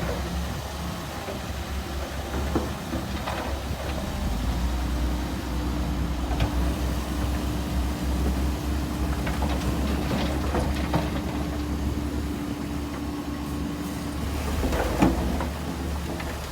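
Bulldozer's diesel engine running with a steady low rumble, joined by a held whine from about four seconds in until near the end, with scattered metallic clanks, one louder clank near the end.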